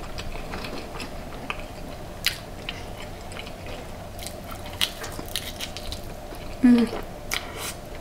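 Close-up eating sounds: biting, crunching and chewing deep-fried seafood, with scattered sharp crackles. A brief vocal sound from the eater comes about two-thirds of the way through.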